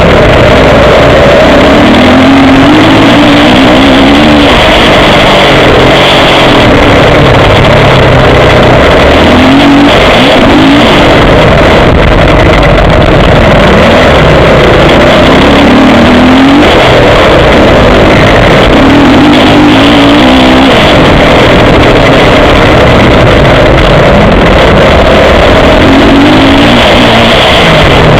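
Motocross bike engine heard close up from an onboard camera, revving hard and dropping off again and again as the rider throttles through the track, with heavy wind noise. It is very loud throughout.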